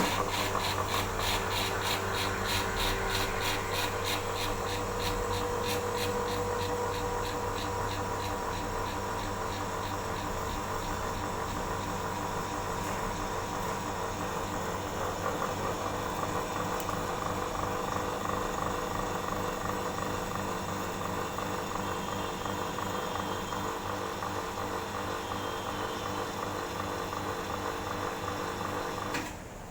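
Vacuum pump of a vacuum leak tester running, starting suddenly and stopping shortly before the end. A rapid, even pulsing in the first several seconds fades out, leaving a steady machine hum.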